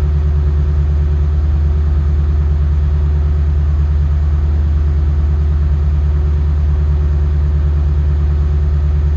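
Lexus LS460's 4.6-litre V8 idling steadily through a Fujitsubo SuperTi titanium exhaust during warm-up after a cold start, a deep, even rumble with no revving.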